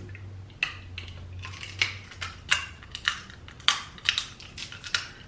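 Snow crab leg shells being cracked and picked apart by hand: a string of sharp, irregular cracks and clicks, about two a second, over a low steady hum.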